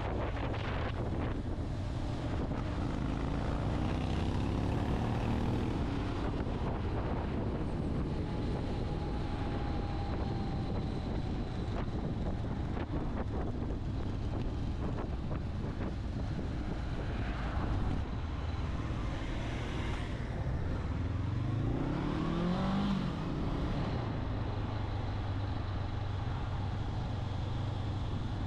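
Motorcycle engine running under way, with a steady hum and road noise. The pitch rises twice, near the start and again about three-quarters of the way through, as the engine revs up.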